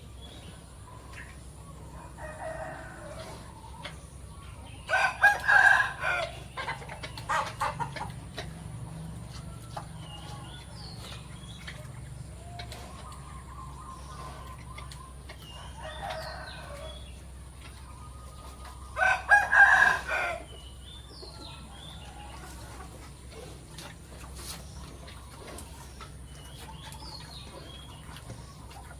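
A rooster crowing twice, about 5 seconds in and again about 19 seconds in, with quieter clucking and small bird chirps between the crows.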